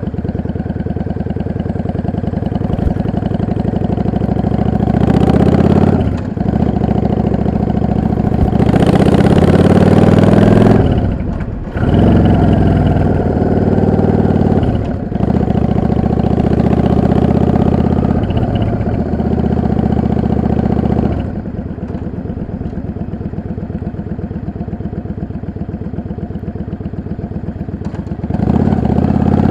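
Yamaha XVS 650 V-Star's air-cooled V-twin engine running under way, rising in pitch through several revs with brief drops between them like gear changes. It settles into a quieter steady run for several seconds, then picks up again near the end.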